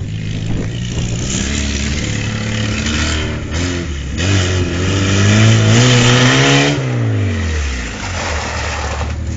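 Lada Niva engine running as the stripped car drives, the revs climbing for a few seconds around the middle and then falling away about three-quarters of the way through.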